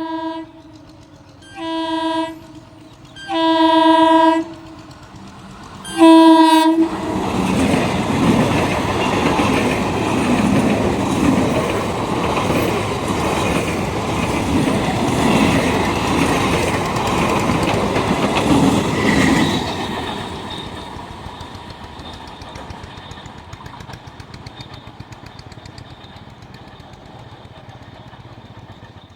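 Indian Railways locomotive horn sounding four short blasts, the last the loudest, as a train approaches. The train then passes close by, its wheels clattering over the rail joints, and the sound fades to a steady rumble over the last third as it draws away.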